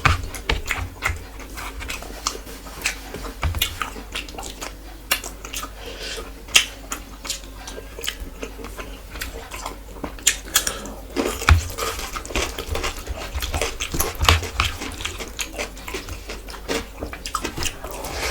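Close-miked eating: wet chewing and lip smacks in an irregular run of short clicks.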